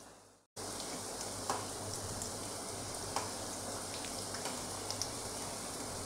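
Stuffed paratha frying in a pan of medium-hot oil: a steady sizzle with scattered small pops and crackles. It starts after a brief moment of silence about half a second in.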